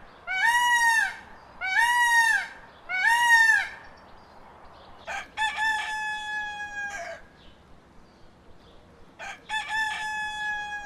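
Rooster crowing: four short rising-and-falling calls about a second apart, then two full crows, each a few short notes ending in a long held note.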